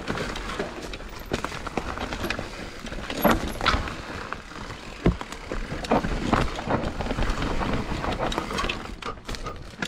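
Mountain bike riding fast on a dry dirt trail: a steady rush of tyre noise, with frequent sharp clicks and knocks as the bike rattles over bumps.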